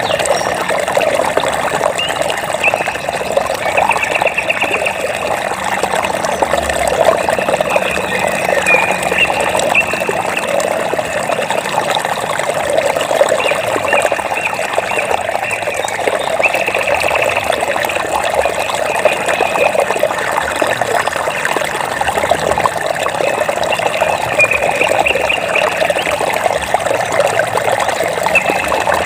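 Water trickling and babbling steadily, as over stones in a small stream. A high, rapid trill from an animal, likely an insect or frog, comes in short bursts every few seconds.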